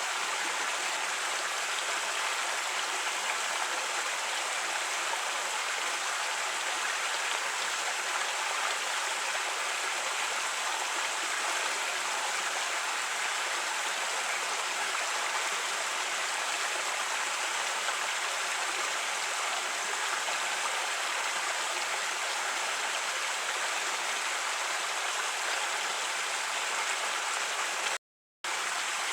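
Creek water flowing over rocks, a steady rushing babble that briefly cuts out for a moment near the end.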